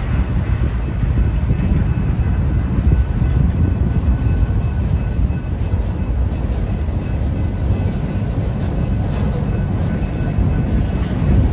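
Freight train cars rolling steadily through a grade crossing: a loud, even rumble of steel wheels on rail.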